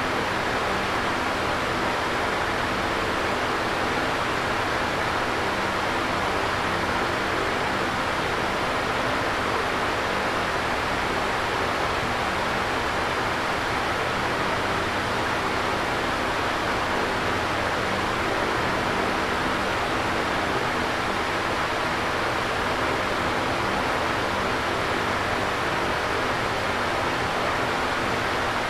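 Electric fan running steadily: an even airy rush with a faint low hum from the motor, unchanging throughout.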